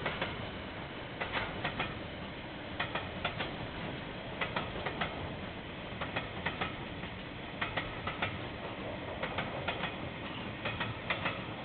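Wheels of a passing Kiwirail train clicking over rail joints: small groups of two or three sharp clicks, repeating about every second and a half as each wagon's bogies cross, over a steady rumble and hiss.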